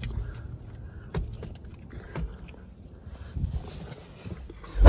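Knocks, clicks and rustling of someone climbing into a pickup truck's cab over a low rumble, ending in a heavy thump.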